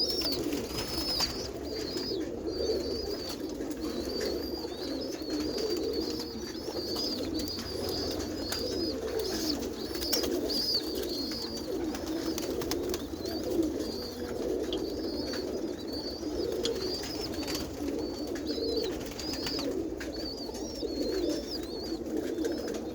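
Roller pigeons cooing, a continuous overlapping warble of many birds, with a stream of short high chirps running over it.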